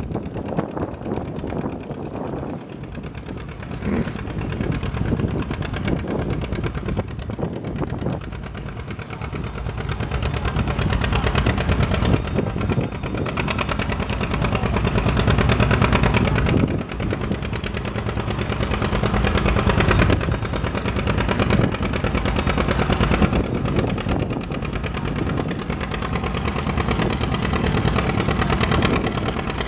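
Antique farm tractor engine working hard under load, its exhaust a rapid, steady run of beats. It gets louder about a third of the way in and dips abruptly for a moment a little past halfway.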